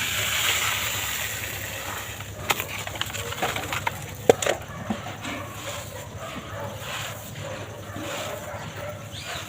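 Dry, dusty material being crumbled: a grainy crunching swell in the first couple of seconds, then scattered crackles and snaps, the sharpest about four seconds in.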